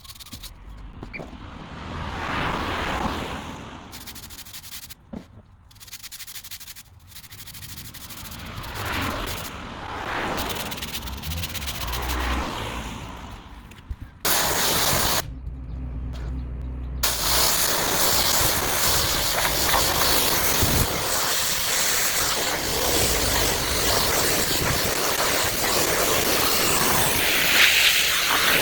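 Pressure-washer water spray hissing against paving. It swells and fades in repeated sweeps for the first half, then runs as a continuous hiss from about halfway on.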